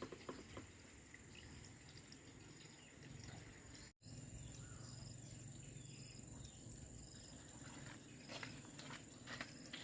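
Near silence: faint background with a steady high-pitched hum and a few light clicks near the end, broken by a brief dropout about four seconds in.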